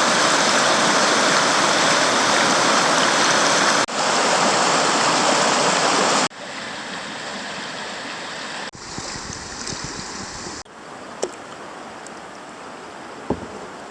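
Steady rush of flowing creek water, loud for the first six seconds, then dropping abruptly to a quieter flow, with a couple of brief taps near the end.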